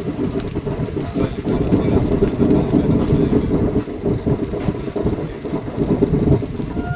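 Passenger express train heard from its open coach door while running at speed: a steady, loud low rumble of the wheels on the track.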